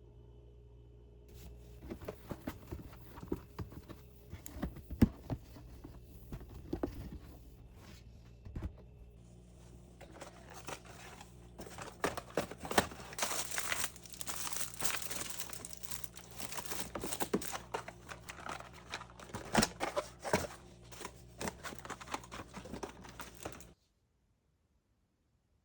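Hands rustling and crinkling something crackly, like wrapping or packaging being handled and crumpled, with scattered light knocks. It gets busier towards the middle and cuts off abruptly near the end.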